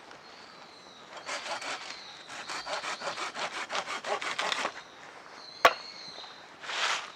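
Hand saw cutting wood in quick back-and-forth strokes for about three and a half seconds, then a single sharp knock and one more short stroke near the end.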